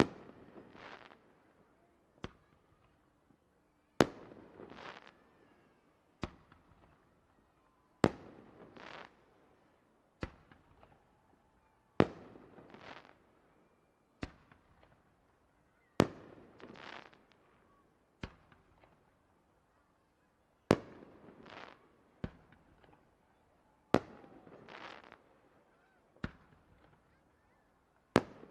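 Fireworks going off at a steady pace: a sharp bang about every two seconds, alternating louder and softer, each followed by about a second of crackling.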